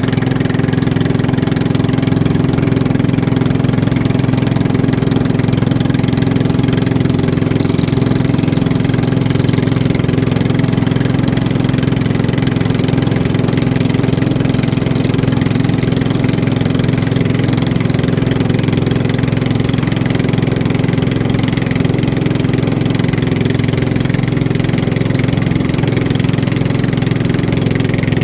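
Boat engine running steadily at a constant speed, a loud, even drone with no change in pitch.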